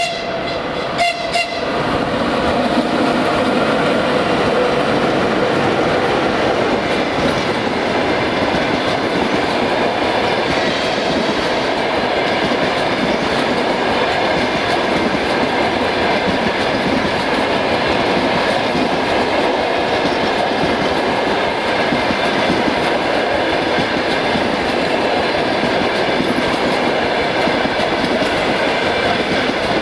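Passenger train hauled by a ChS7 electric locomotive passing by: the steady rumble and clatter of wheels on the rails as the coaches roll past. A horn blast from the locomotive trails off in the first second or so.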